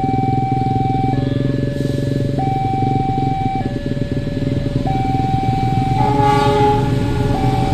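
Diesel-hauled passenger train running past with a heavy rumble. Over it a two-tone warning signal alternates high and low about every second, and a brief horn-like tone sounds about six seconds in.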